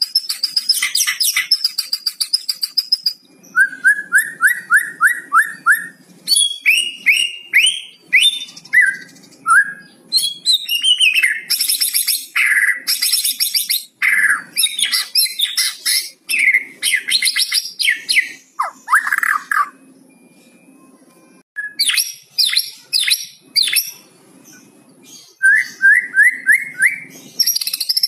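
White-rumped shama (murai batu) singing a fast, varied song: runs of quick rising notes, rattling 'kretekan' trills and clear whistles, broken by two short pauses in the second half.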